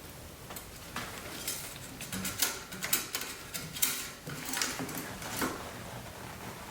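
Irregular light clicks, taps and rustling of hand work at the oil dipstick: it is pulled from its tube, wiped and slid back in to check the engine oil level.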